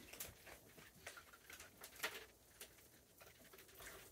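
Near silence, with a few faint scattered clicks and taps and one slightly louder click about two seconds in.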